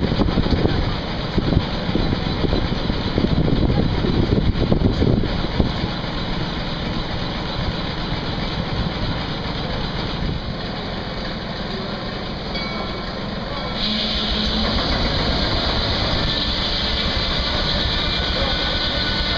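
Case steam traction engine running and driving a belt-driven sawmill, with an uneven low rumble early on. A steady high-pitched hiss or whine joins about two-thirds of the way through and holds.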